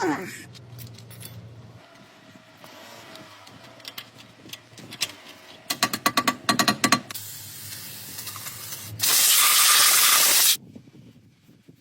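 A quick run of sharp clicks and rattles, then a steady hiss of spray for about a second and a half near the end.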